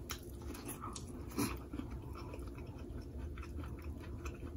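Close-up chewing and mouth noises of a person eating a seafood boil, with small wet clicks and one louder bite about a second and a half in.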